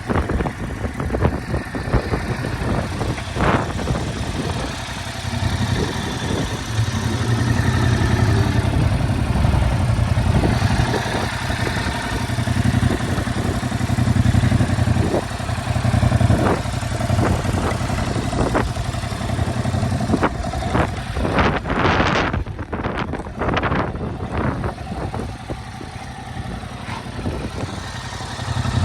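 2022 Yamaha R7's 689 cc parallel-twin engine running at idle, with a steady low throb whose strength rises and falls, and a few short louder surges a little past two-thirds of the way in.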